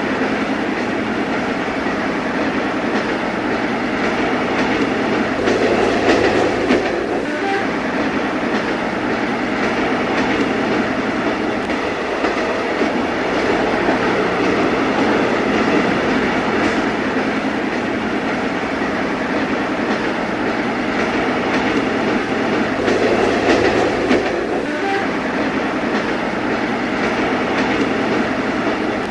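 A train running on rails: a steady, dense noise of wheels on track, swelling slightly a few seconds in and again near the end.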